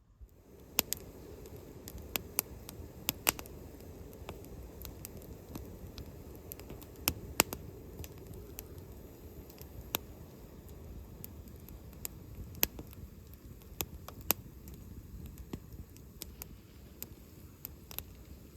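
Small wood fire crackling in a Firebox camp stove: irregular sharp pops and snaps over a low steady rumble.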